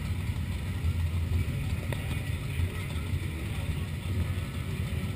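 Motorcycle engines running at low revs in slow, walking-pace traffic: a steady, pulsing low rumble.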